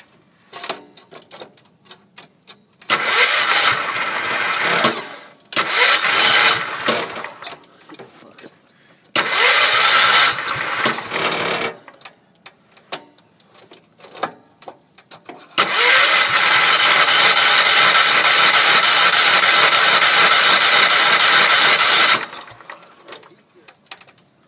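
Wheel Horse C-105 garden tractor's starter cranking the engine in a hard cold start, in four bursts, the last about six seconds long, with short clicks between them; the engine is slow to catch in the cold.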